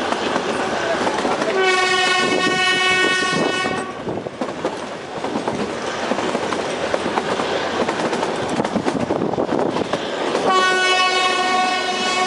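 Kalka–Shimla narrow-gauge toy train running on the track, wheels clattering, heard from a coach window. Its horn sounds one long blast of about two seconds near the start, and a second blast begins near the end.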